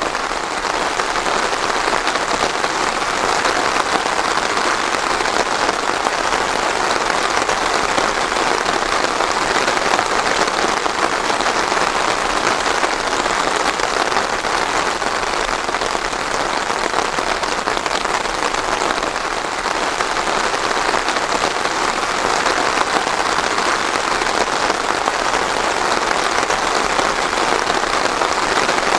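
Steady rain falling on a surface, a constant even patter without thunder.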